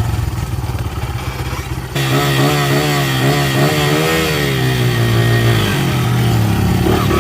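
Motorcycle engine running steadily. The sound changes abruptly about two seconds in, as at an edit.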